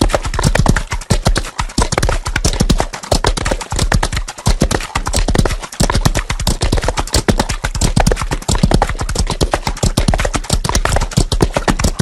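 Hoofbeats of horses galloping: a dense, continuous run of overlapping hoof strikes on the ground.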